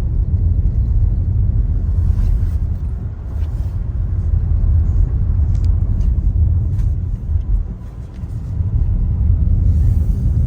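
Steady low rumble of a car driving, heard from inside the cabin, easing briefly about three and eight seconds in.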